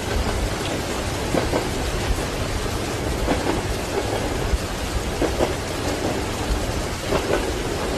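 Steady rain with a continuous low thunder rumble, over the clack of train wheels crossing rail joints in double knocks about every two seconds.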